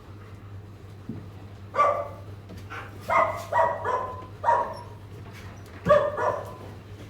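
A dog barking: a single bark, then a quick run of about four barks, then two more near the end.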